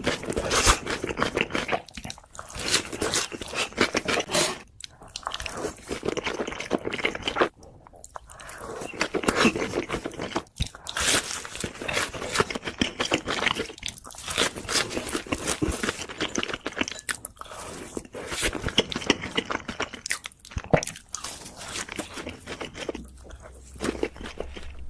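Close-miked eating: crisp crunchy bites and chewing, a dense run of crackling crunches with a few short pauses between mouthfuls.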